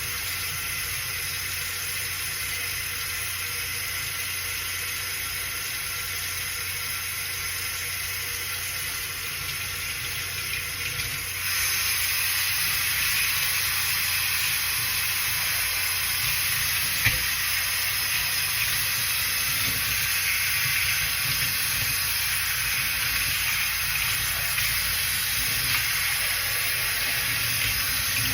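Water running steadily from a sink tap, turned up louder about a third of the way in, with a single sharp click about halfway through.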